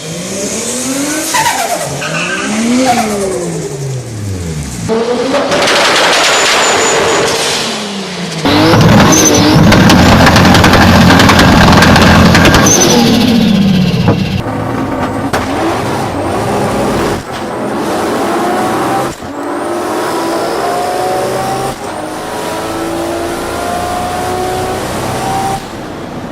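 Big-turbo Toyota Supra engines revving and accelerating hard in a run of short clips, the engine pitch climbing and falling again and again. A loud stretch of rushing noise fills the middle, and near the end comes a string of short rising pulls through the gears.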